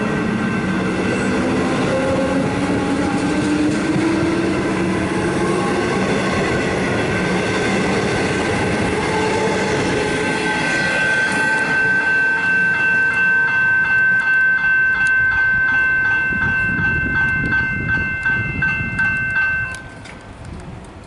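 EDI-refurbished Comeng suburban electric train pulling away from the platform, its traction motors whining up in pitch over the first several seconds. In the second half a high ringing pulses about three times a second, then cuts off suddenly near the end.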